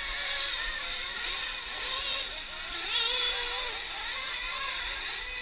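Small nitro RC truck engines running at high revs on the track, several overlapping high-pitched whines whose pitch rises and falls as the trucks speed up and brake.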